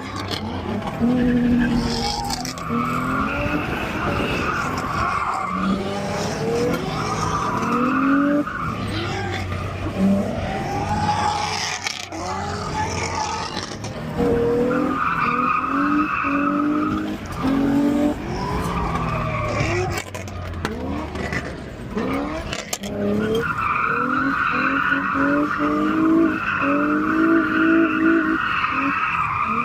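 A car doing donuts: the engine revs up and down again and again while the tyres squeal in long stretches. The longest and strongest squeal comes near the end.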